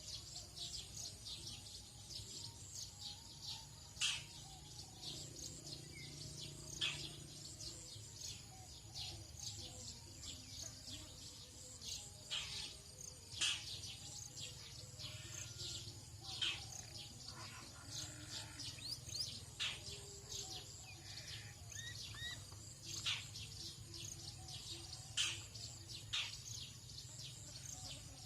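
Birds calling: many short, sharp chirps at irregular intervals, over a steady high-pitched drone of insects.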